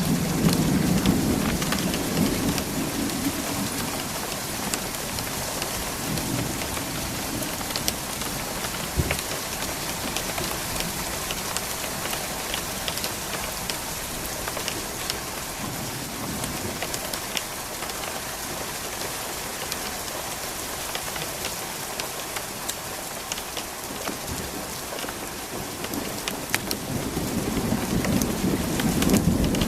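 Steady rain falling on hard surfaces during a nearby thunderstorm, with a roll of thunder rumbling at the start and another building near the end.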